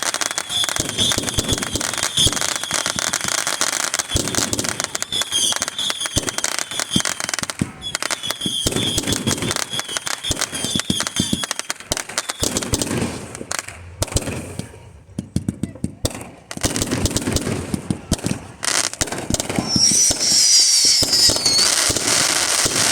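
Fireworks going off in a dense, rapid barrage of crackles and pops with high whistles over it, easing off briefly about two-thirds of the way through before picking up again.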